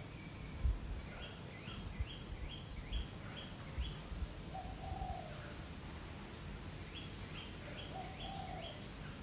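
A bird calling faintly: two runs of short, high, rising chirps, about three a second, with a few lower notes between them. A few soft low thumps sound now and then.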